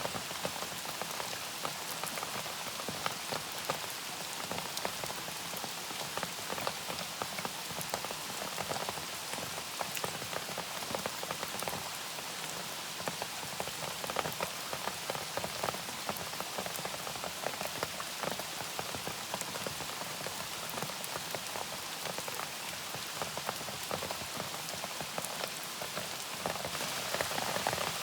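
Steady rain, with many individual drops ticking sharply on a surface through an even hiss of rainfall.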